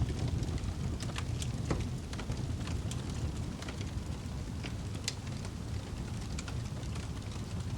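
Wood fire in a fireplace crackling, with scattered irregular sharp pops over a steady low rumble.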